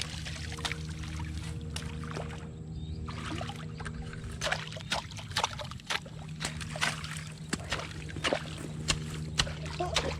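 Water sloshing and splashing with many short knocks and clicks, as people wade and work in a pond, over a steady low mechanical hum.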